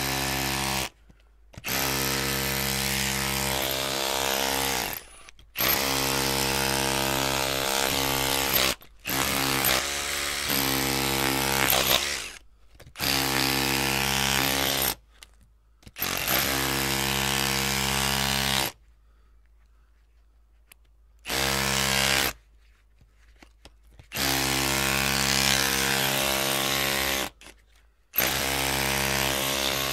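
Electric drill running in repeated bursts of one to four seconds, switched off and on again with short silences between: a steady motor whine over a hiss.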